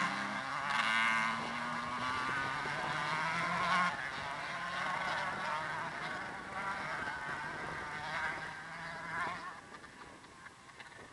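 125 cc two-stroke dirt bike engines buzzing and revving as the bikes ride, the pitch wavering with the throttle. The sound fades away over the last couple of seconds.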